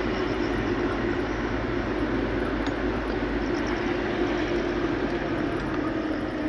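Steady drone of a moving vehicle's engine and road noise, with an even low hum that holds the same pitch throughout.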